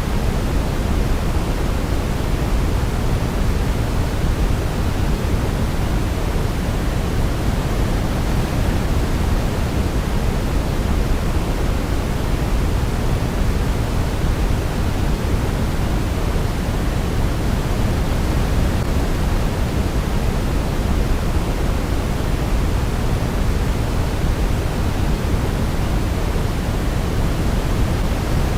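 Steady, unbroken sleep-aid white noise, an even hiss weighted toward the low end like pink noise, with no change in level.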